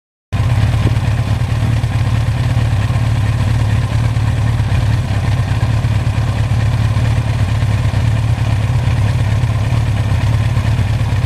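Air-cooled inline-four engine of a 1982 Suzuki GS1100E motorcycle running steadily under way, with wind noise on the microphone. It starts and cuts off abruptly.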